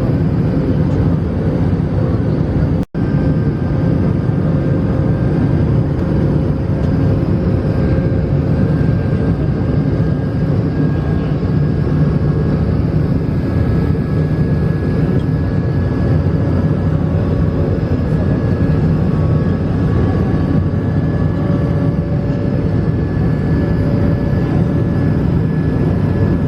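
Steady cabin noise inside an Airbus A220-300, a loud rush with faint engine whines from its Pratt & Whitney PW1524G engines. The sound drops out for an instant about three seconds in.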